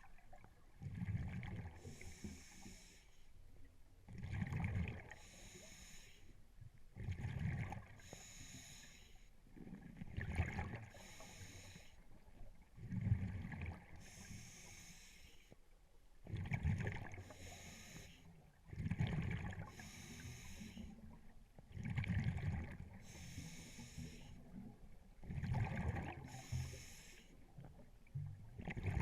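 Scuba diver breathing through a regulator underwater: a hiss on each inhalation alternates with a low burble of exhaled bubbles, one breath about every three seconds.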